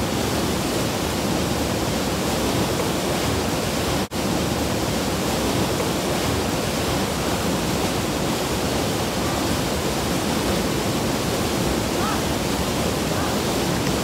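Steady rushing roar of a waterfall, even and unbroken, with a momentary dropout about four seconds in.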